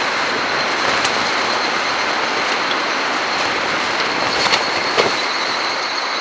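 Strong wind blowing with a steady rushing noise, and a few sharp clicks or taps about a second in and again near the four-and-a-half and five second marks. A thin, steady high tone runs underneath.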